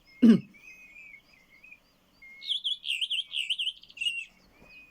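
Redwing song: a few soft whistles, then a run of quick, repeated twittering notes, with one more short whistle near the end. A brief "ooh" from a person comes about a quarter second in.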